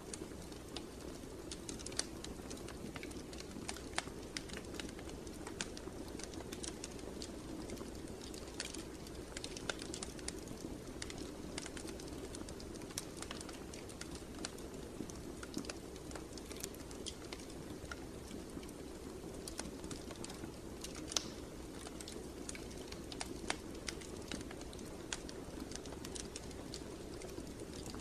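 Wood fire burning in a fireplace: a steady low rush of flame with irregular crackles and pops scattered throughout.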